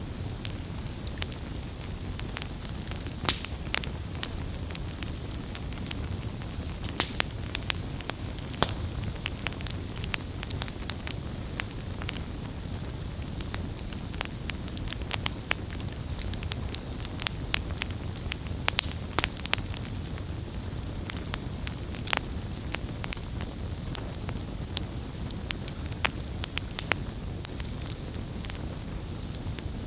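Wood campfire crackling, with frequent irregular sharp pops and snaps over a steady low rumble of the burning fire.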